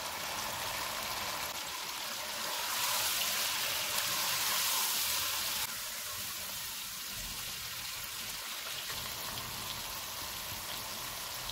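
Chicken, tomatoes and spices frying in oil in a wok, a steady sizzling hiss that swells louder for about three seconds near the start, then settles.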